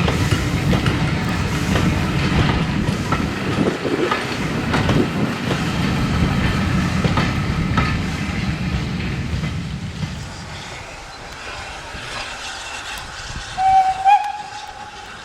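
A passing train rumbling, its wheels clattering over the rail joints, the sound fading away after about ten seconds. Near the end comes a short steam locomotive whistle.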